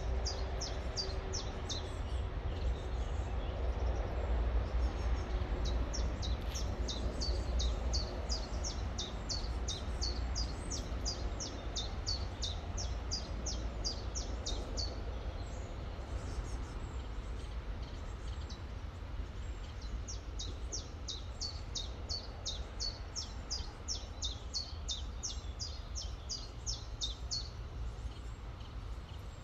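A songbird repeating a short, high, quickly falling note about three times a second, in two long runs: the first starts about two seconds in and stops about halfway, the second starts about two-thirds of the way in and stops shortly before the end. Beneath it, the steady rush of river water and a low rumble.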